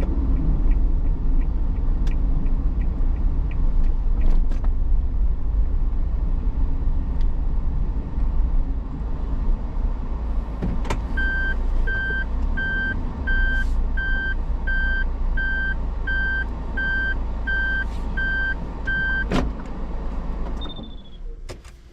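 A car's engine and road rumble heard from inside, with a light ticking near the start. It is followed by a steady run of short reversing beeps, about one and a half a second, for some eight seconds. The beeps end with a click, and a little later the engine switches off and the rumble drops away.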